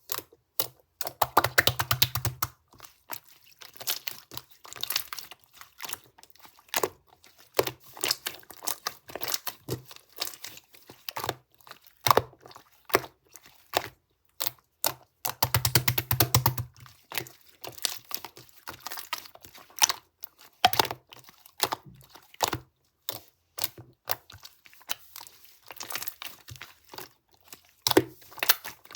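Hands squishing, pressing and stretching slime, giving an irregular run of sticky pops and clicks. Twice, once about a second in and once near the middle, it breaks into rapid crackling for a second or two.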